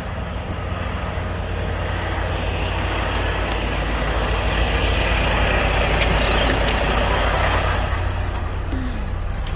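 Semi-truck's diesel engine running as the truck drives, a steady low drone with road noise that grows louder in the middle and eases off near the end.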